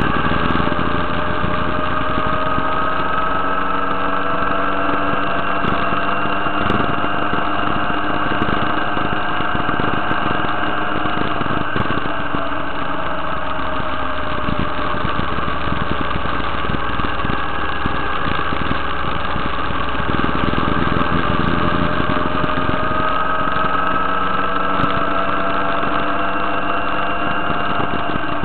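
Motorcycle engine running under way, its pitch sinking slowly through the middle and climbing again near the end as the throttle changes.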